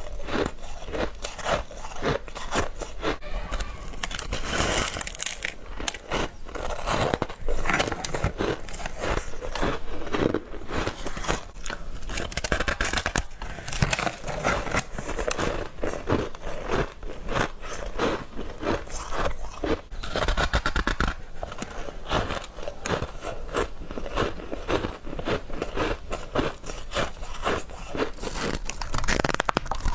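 Close-up biting and chewing of freezer frost and ice: a dense run of crisp, irregular crunches with no let-up.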